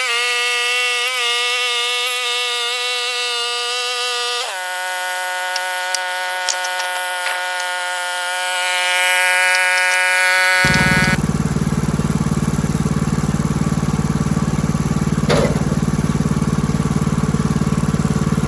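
Engine running at a steady speed, its pitch stepping up about four seconds in; from about ten seconds a louder, rougher engine sound with a strong low rumble takes over.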